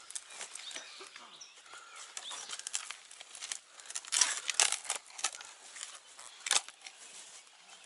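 Shovel digging into soil: irregular crunching and scraping, with a few sharper strikes in the second half.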